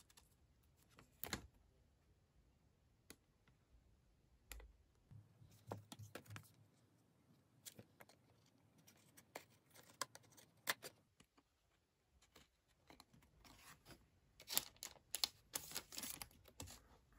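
Faint, scattered clicks and rustles of a pink cardboard photo-frame stand being folded and slotted together by hand, with a denser, louder run of plastic-sleeve crinkling and tapping near the end.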